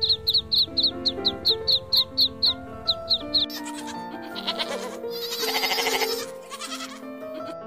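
Background music with a goat bleating once, a long wavering bleat about two-thirds of the way in. In the first half a quick, even run of short high chirps plays over the music.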